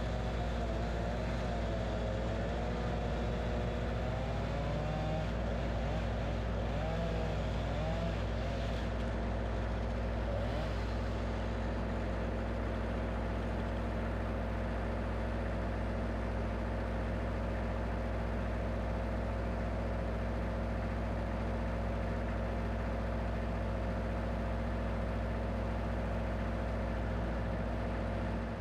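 Wood-Mizer LX25 portable band sawmill's engine running steadily, with a wavering higher pitch over it for the first several seconds.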